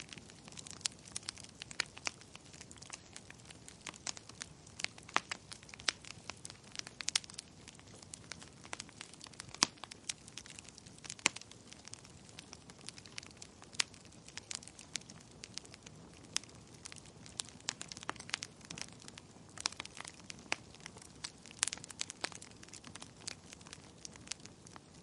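Wood fire crackling in a fireplace: a soft steady hiss of burning with irregular sharp pops and snaps, a few of them louder.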